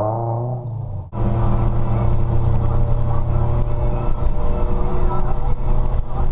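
Car engine pulling with rising pitch as it accelerates. It cuts off sharply about a second in and is followed by a steady engine drone at constant revs.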